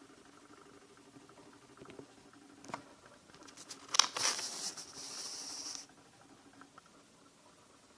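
Paper rustling as a bullet journal page is turned: a sharp crackle about four seconds in, then a couple of seconds of sliding paper noise that stops suddenly.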